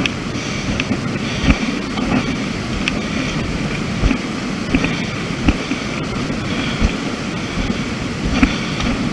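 Wind rumbling on a hand-held camera's microphone on a rocky trail, with footfalls on stone and dirt about once a second and a hiker's heavy breathing.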